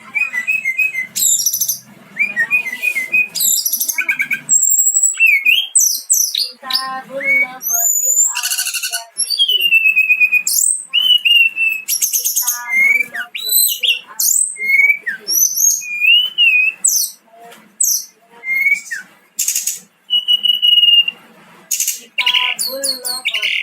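Brown-chested jungle flycatchers singing: a long, continuous run of varied whistled phrases, quick trills and high sweeping notes following one another with only brief gaps.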